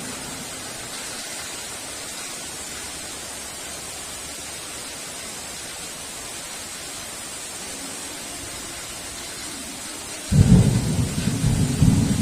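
Heavy rain pouring steadily. About ten seconds in, a loud thunder rumble breaks in suddenly and keeps rolling.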